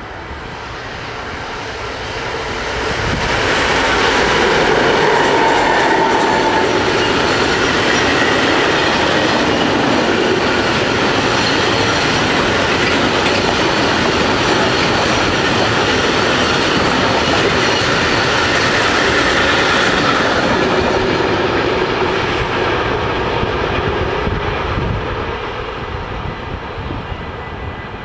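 Freight train of bulk silo wagons, hauled by an electric locomotive with a second locomotive coupled behind, passing close by. The noise of the train builds over the first few seconds as the locomotives arrive, holds steady while the long line of wagons rolls past on the rails, then fades away near the end.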